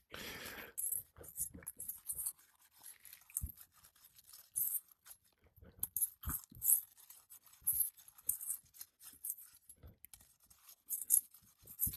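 Irregular short scratchy scrapes with a few light knocks: brittle 3-tab asphalt shingles being handled and worked on a roof.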